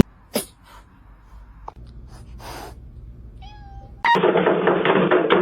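A domestic cat gives one short meow about three and a half seconds in, after a few faint clicks. Then a much louder, noisy stretch with many knocks starts suddenly.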